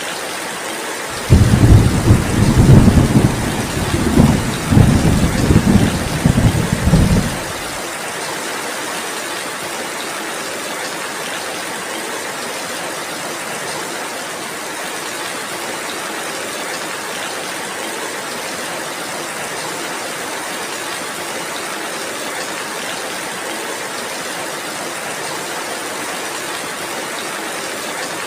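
Steady heavy rain, with a thunder rumble that starts abruptly about a second in, rolls for some six seconds and dies away, leaving the rain alone.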